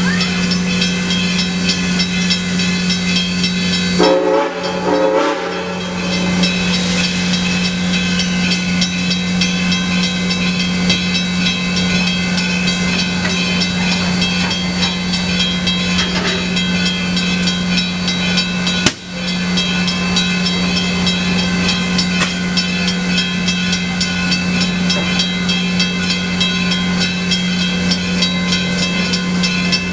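Locomotive running steadily, a constant hum with many steady tones, broken briefly about four seconds in and again near nineteen seconds.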